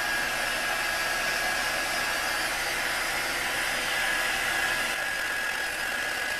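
Electric heat gun blowing steadily, a whir of moving air with a thin steady whine, warming freshly sprayed engine enamel to tack it off and harden it before the clear coat goes on.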